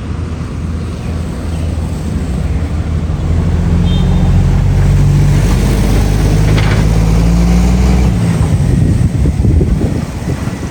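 Caterpillar 320C excavator's diesel engine running, getting louder and rising slightly in pitch from about three seconds in as it comes under load, then dropping back near the end. A brief knock comes about two-thirds of the way through.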